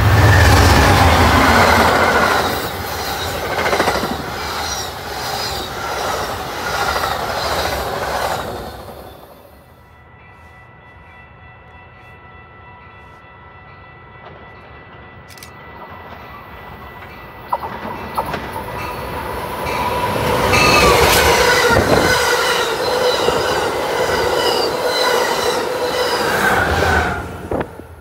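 Train passing close by, its wheels rumbling and clicking over the rails with some squeal. It dies down about a third of the way through, then builds loud again for the last third.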